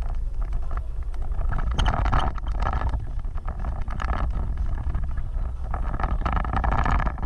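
Off-road vehicle driving over rough ground: a steady low rumble with wind buffeting the microphone, and scattered knocks and rattles.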